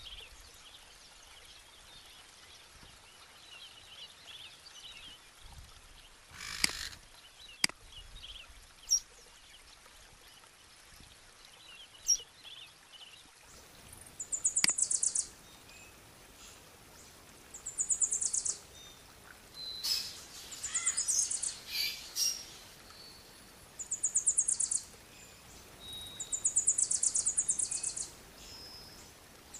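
Background recording of birdsong. Faint scattered chirps at first, with a few sharp clicks in the first half. From about halfway, loud high-pitched trills about a second long repeat every two to three seconds.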